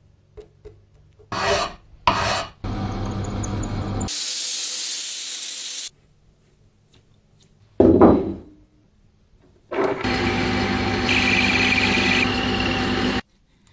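A string of short, abruptly cut workshop sounds from restoring a rusty metal tool: rubbing and scraping strokes, a loud hiss about four seconds in, and a tool running steadily with a hum near the end.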